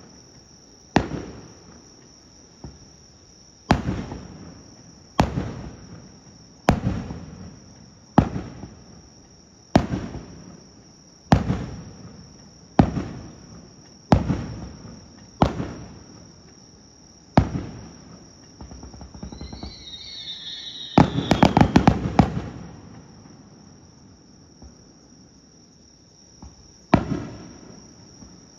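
Aerial firework shells bursting one after another, about one bang every second and a half, each followed by an echo. About twenty seconds in, a falling whistle leads into a quick crackling volley of many small bursts, then after a pause one more bang comes near the end.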